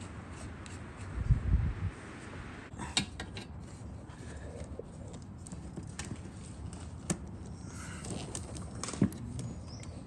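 Scattered clicks and knocks of metal parts and hand tools being handled while a carburetor is fitted back onto a small dirt bike, with a heavier low thump about a second in.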